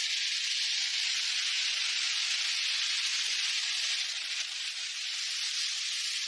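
Steady loud hiss of severe-storm noise, an even rush with no low rumble, easing slightly about four seconds in.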